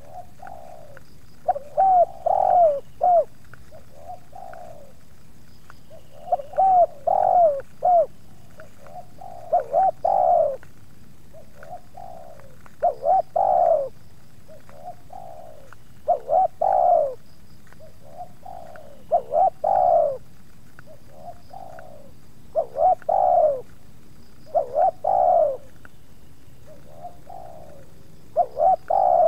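Spotted doves cooing: a phrase of several short coos about every three seconds, repeated about nine times.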